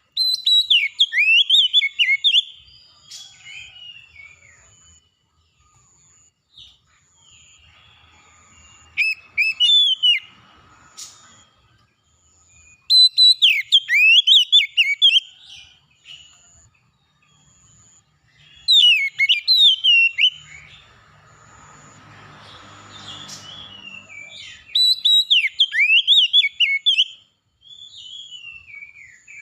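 Oriental magpie-robin (kacer) singing in five bursts of fast, varied whistled phrases, each lasting two to three seconds, with pauses between. A faint high chirp repeats about once a second throughout, and a low rumbling noise comes in after the fourth burst.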